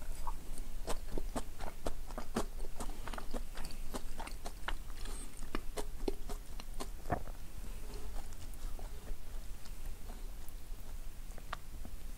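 Close-miked chewing of a mouthful of okonomiyaki: many short, moist mouth clicks and smacks, thick for the first seven seconds or so, then thinning out.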